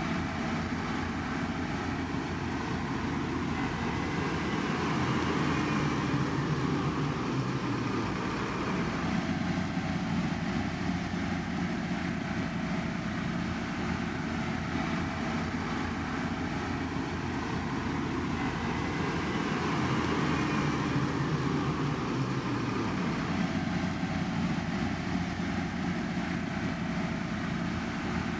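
Heavy construction machinery running steadily, a continuous diesel engine drone that swells slightly twice.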